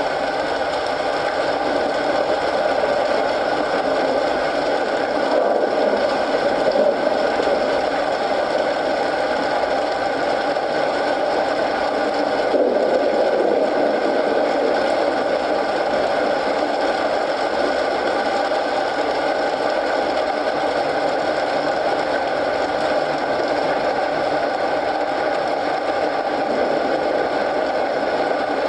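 Steady rain falling, mixed with a wood fire burning in a fireplace, a few faint crackles showing through the hiss.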